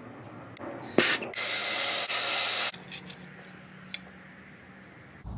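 A sharp click, then a steady spraying hiss lasting about a second and a half, and a faint tick later on.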